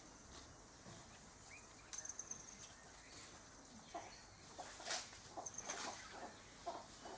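Faint bird calls: from about four seconds in, a quick run of short repeated notes, with a few brief high chirps before it.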